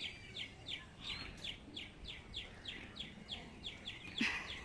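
A bird chirping over and over in short, falling notes, about three to four a second, with one brief louder sound about four seconds in.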